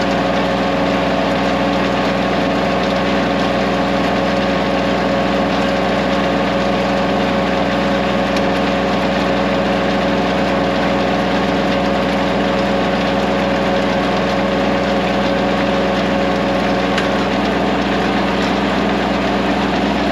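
Diesel compact tractor engine running steadily at a constant speed, powering a small round hay baler while baling.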